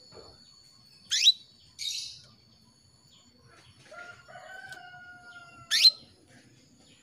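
Female canary calling to a male: two loud, sharp upward-sweeping chirps about four and a half seconds apart, with a shorter raspy note just after the first. A fainter, longer call with a steady pitch sounds in the background between them.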